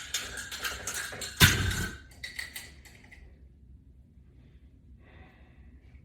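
Hardware clinking and rattling as a resistance band and its carabiner are worked off a latch bar, with one loud knock about a second and a half in. The handling stops about three seconds in.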